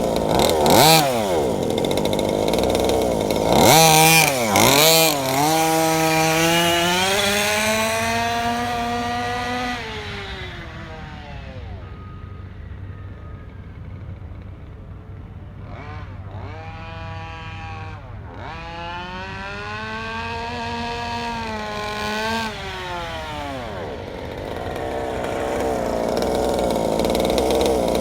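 Small two-stroke engine of a 1/5-scale gas RC car (a 32cc Rovan long block) revving up and down as the car drives around during engine break-in. It fades as the car moves away about ten seconds in, then grows louder again toward the end.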